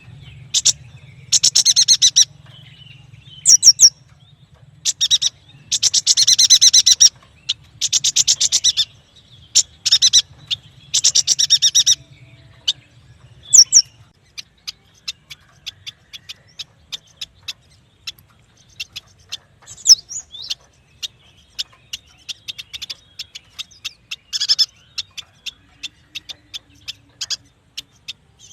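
Yuhina calling: repeated loud bursts of rapid, buzzy chattering for about the first half. The rest is a steady run of short, sharp chip notes, with a couple of louder calls among them.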